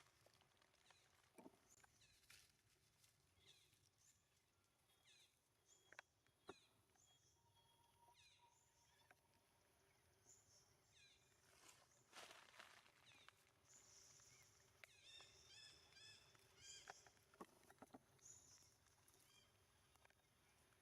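Faint, high-pitched squeaks and chirps from monkeys: many short calls, with a run of rapid chirps about two-thirds through, amid scattered light clicks and taps.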